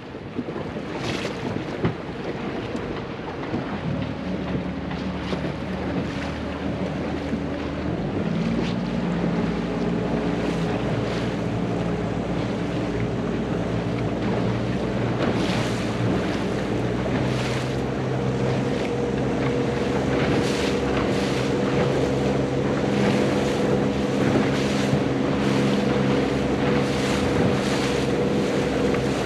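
A motorboat's outboard engine running steadily, its note shifting about eight seconds in, under wind buffeting the microphone and water splashing against the hull.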